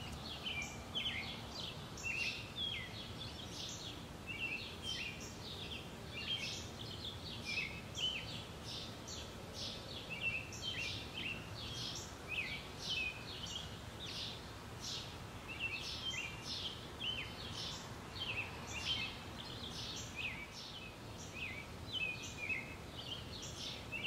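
Small birds chirping: a continuous run of short, high chirps, several a second, over faint outdoor background noise.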